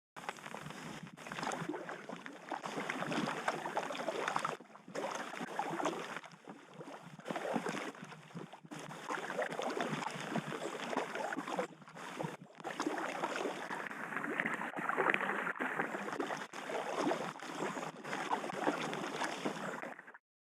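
River water rushing and splashing around a packraft as it drifts downstream, a rough, surging wash that cuts out briefly several times.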